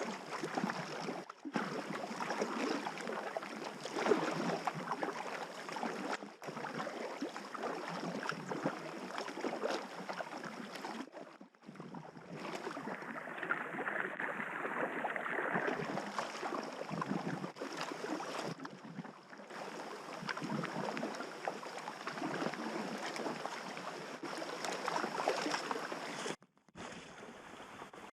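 River water rushing and splashing around a packraft on the move. Several short, abrupt breaks where the footage is cut.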